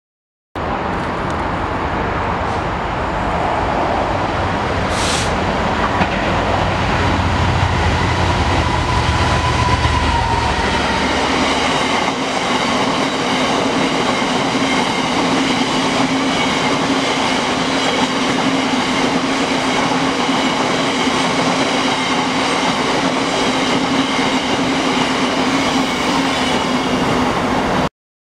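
Class 66 diesel locomotive 66302, with its EMD two-stroke V12 engine, passing at speed with a heavy low rumble for the first twelve seconds or so. Its long rake of stone hopper wagons then rolls by with steady wheel-on-rail noise and high ringing tones. The sound starts abruptly about half a second in and cuts off suddenly near the end.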